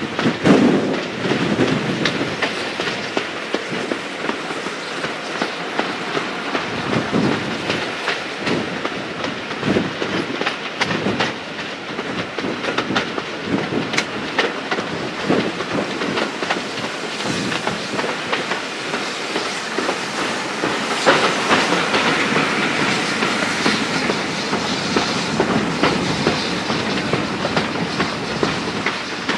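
Passenger train coach running along the line, heard from an open carriage window: a steady rumble and rush of air with the clickety-clack of wheels over the rail joints. It grows louder and brighter about two-thirds of the way through.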